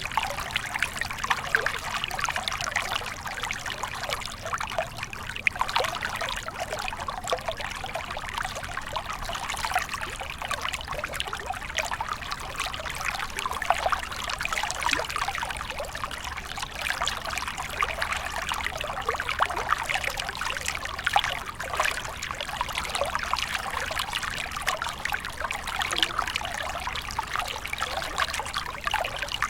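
Small stream of water flowing and trickling, a steady splashy babble with many small gurgles.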